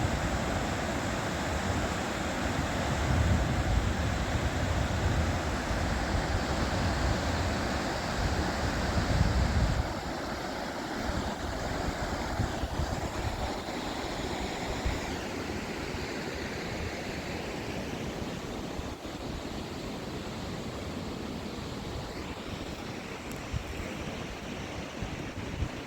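Wind blowing across the microphone: heavy low buffeting for about the first ten seconds, then a steadier rushing hiss.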